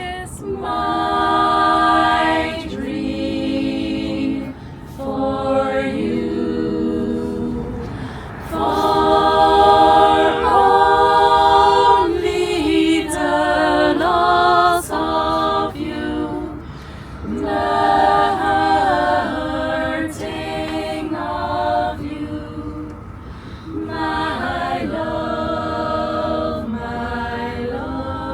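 Youth choir singing a cappella in phrases of several voices, over the steady low rumble of the moving train carriage.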